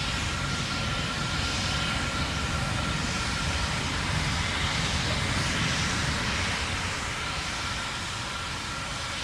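Steady, distant roar and rumble of the Terran 1 first stage's nine methane-fuelled engines during ascent, fading slightly near the end.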